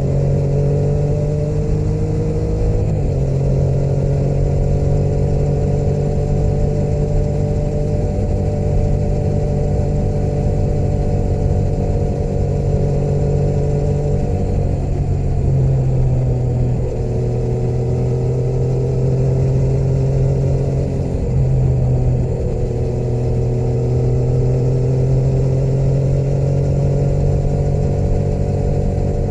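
Motorcycle engine running steadily on the road. The engine note drops and changes a few times, at about 3 seconds, around 15 to 17 seconds and at about 22 seconds, as throttle and gears change.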